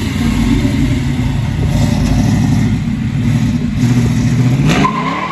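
Car engine revving hard and held at high revs, its note wavering, then climbing sharply near the end.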